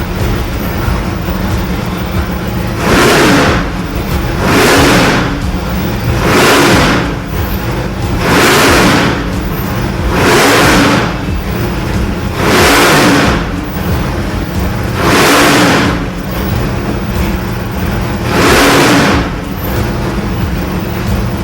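632 cubic-inch fuel-injected big-block Chevy V8 with a solid roller cam, running at a nasty idle and blipped eight times in short revs about every two seconds.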